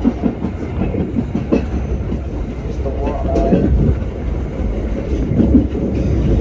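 Passenger train running on the rails: a steady low rumble with irregular clicks and knocks of the wheels passing over rail joints.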